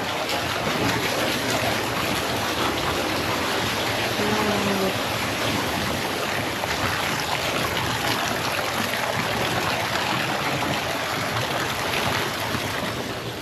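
Steady rush of running water, an even hiss-like noise without a beat.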